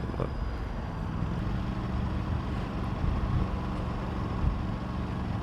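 Aprilia RS 457's parallel-twin engine running at steady revs while the motorcycle is ridden.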